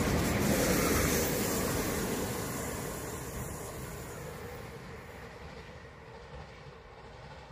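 České dráhy InterPanter electric multiple unit passing on the rails, its wheel and running noise fading steadily as it draws away.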